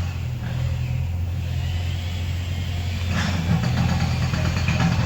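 Steady low hum of a running machine, with a couple of short clinks about three seconds in and near the end.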